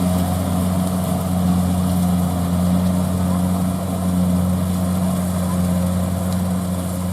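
Combine harvester engine running steadily at a constant speed, with no change in pitch.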